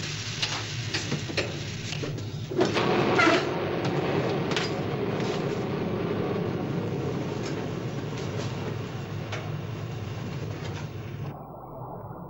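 Submarine-interior sound effects during a dive: sharp clicks about twice a second, then a louder rush of noise about two and a half seconds in, settling into a steady low rumble of machinery.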